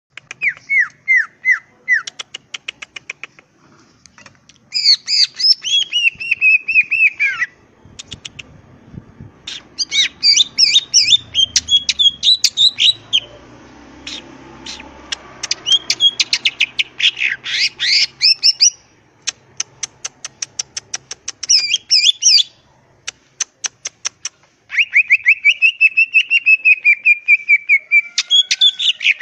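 Green leafbird (cucak ijo) singing loudly and at length: a varied song of rapid chirps, falling and sliding whistled notes, and fast dry ticking rattles, delivered in bursts with short pauses between them.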